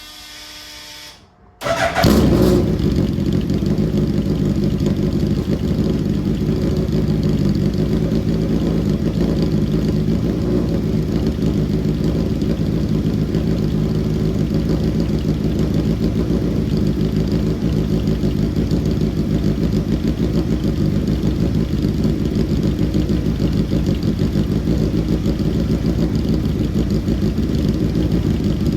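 Engine of a handmade Tyrrell P34-style F1 car running steadily through its newly built 4-into-2-into-1 exhaust, starting abruptly about a second and a half in.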